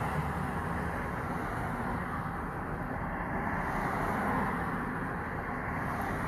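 Steady road-vehicle noise, engine and tyres, swelling slightly about four seconds in as a vehicle goes by.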